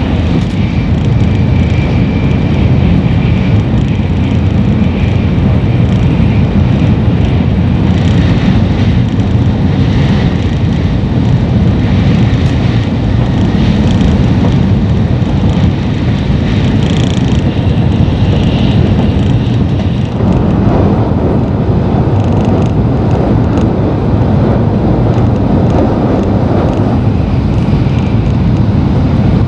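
Steady rumble and rush of an N700 series Shinkansen heard from inside the passenger cabin while running at speed. The rush grows brighter about twenty seconds in.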